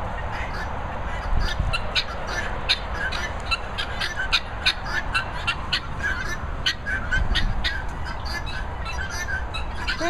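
Birds calling repeatedly outdoors, a quick run of short, sharp chirps, several a second, over a steady low rumble.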